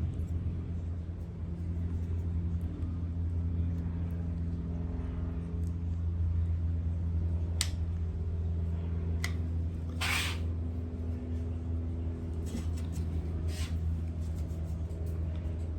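A steady low mechanical hum with a few steady higher tones above it, under a few sharp clicks and a short scrape about ten seconds in, from small parts and tools being handled while epoxy is applied.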